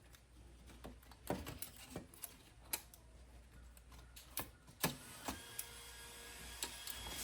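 Irregular sharp clicks and taps of the car radio's plastic parts being handled and fitted together as the front panel is brought back into place. After about five seconds the clicks thin out and a faint steady hum takes over.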